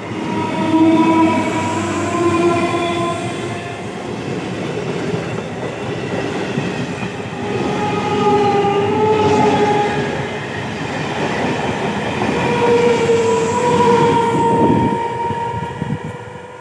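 Electric local train (EMU) running past close by: a steady rumble and clatter of wheels on rail, with several long drawn-out pitched tones over the top.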